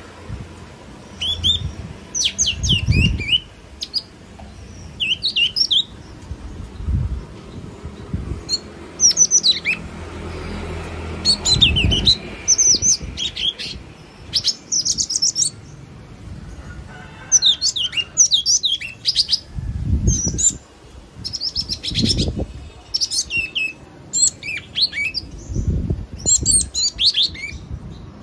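Yellow-cheeked tit calling: clusters of quick, high chirping notes repeated every second or two. Occasional low thumps can be heard under the calls.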